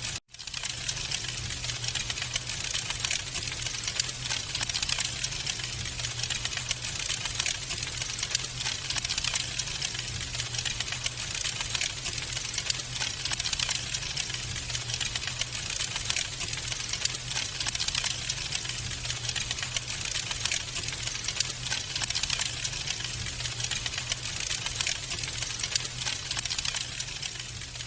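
Wood fire crackling steadily, a dense stream of small pops and snaps over a low, even rumble. The sound cuts out for a moment at the very start.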